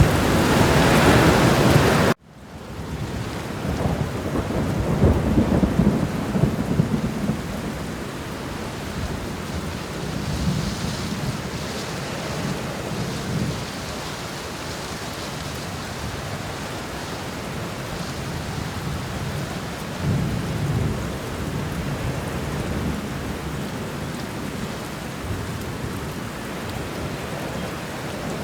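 Steady rain hissing, with slow low rumbles of thunder swelling up a few seconds in and again near the middle. About two seconds in the loud rain cuts off abruptly and the sound fades back up, as at a splice in the recording.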